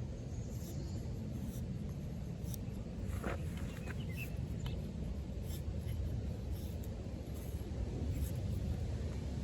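A knife blade, an Off-Grid Caiman XXL D2-steel bowie, shaving curls off a stick of wood, heard as a few faint short scraping strokes over a steady low outdoor rumble.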